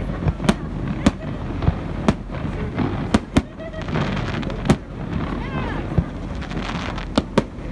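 Aerial fireworks shells bursting: a string of about eight sharp bangs at irregular intervals, two of them in quick succession just after three seconds and two more near the end.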